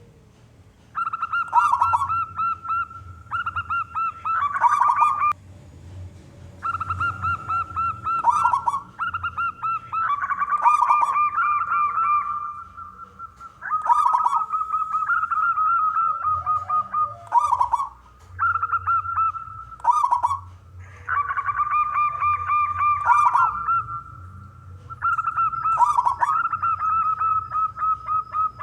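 Male zebra dove (perkutut) singing: repeated phrases of its rapid, rolling coos, each a few seconds long with short pauses between.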